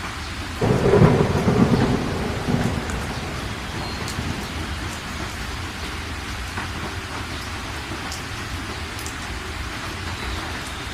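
Heavy rain falling steadily. A thunderclap breaks in suddenly about half a second in, and its rumble dies away over the next two seconds.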